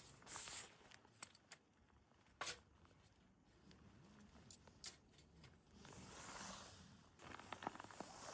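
Faint rustling and scattered small clicks of something being handled, with a sharper click about two and a half seconds in and a longer rustle a little after six seconds.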